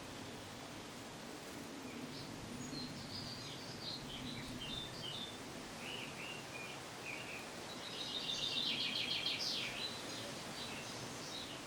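A small bird singing, a varied string of short chirps and warbled notes, building about eight seconds in to a fast trill, the loudest part. Steady background hiss and a low hum run underneath.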